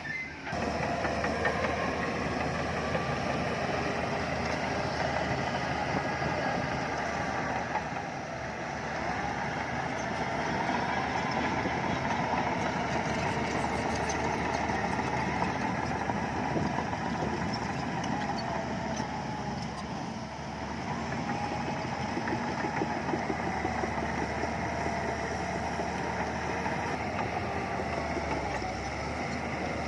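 Crawler bulldozer's diesel engine running steadily while working, with a dense rattling clatter. It cuts in abruptly at the start and eases off briefly twice, about a third and two-thirds of the way through.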